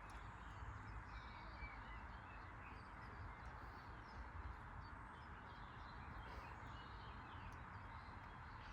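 Faint outdoor background with low rumble and a few short, distant bird calls.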